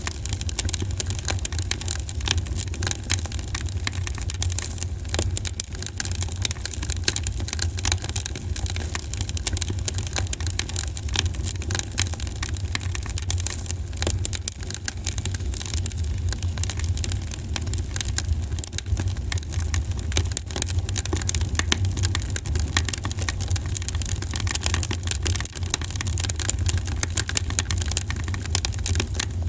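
Campfire crackling, with a constant stream of sharp pops and snaps from the burning wood over a steady low rumble.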